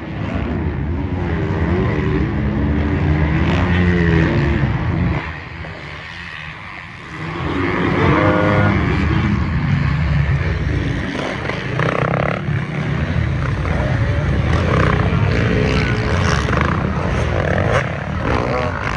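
Off-road racing engines revving up and down as machines run on a motocross track. The sound drops away about five seconds in and returns loudly after two more seconds.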